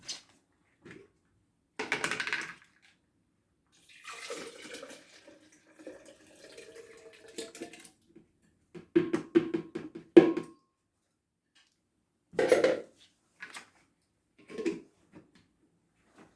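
Boiled carrots and pumpkin with their cooking water being poured into a blender jug: several separate splashing pours, with a few knocks of the pot or spoon against the jug.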